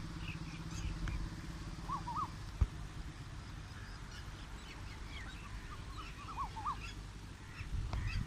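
Birds calling in short chirps, with quick clusters of rising-and-falling notes about two seconds in and again about six seconds in, over a steady low rumble. A single sharp click comes between them.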